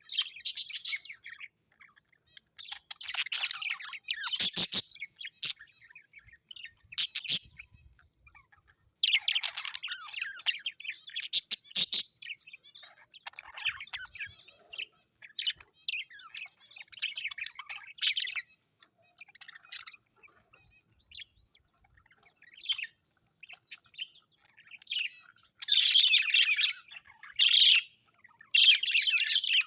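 Birds chirping and calling in irregular high bursts, with quieter calls in between and loud clusters of chirps at about four seconds, twelve seconds and near the end.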